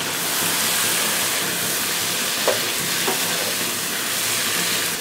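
Shrimp sizzling in hot oil and spice masala in a pan as they are stirred to coat them, a steady frying hiss with two brief squeaks around the middle.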